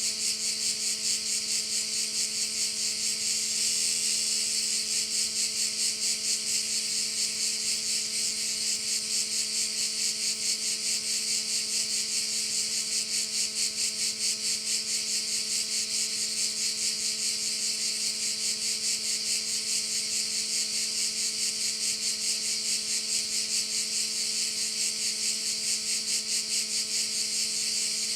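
Dense, continuous chorus of cicadas shrilling, a high rasping drone with a rapid pulse and a regular swell a few times a second. A faint steady low hum lies underneath.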